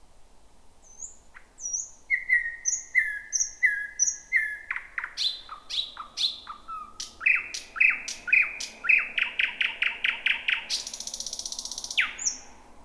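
Thrush nightingale singing one song phrase, starting about two seconds in: a row of repeated whistled notes, then sharp falling notes, then a fast run of repeated notes that ends in a dry rattle of about a second and a last falling note.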